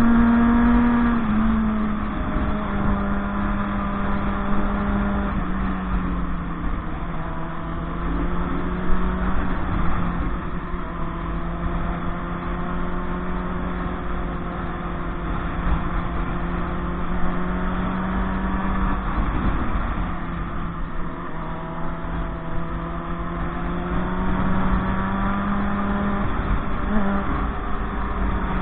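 Motorcycle engine running at a steady cruise. Its pitch drops a little in the first few seconds and rises again near the end, over a low rumbling noise.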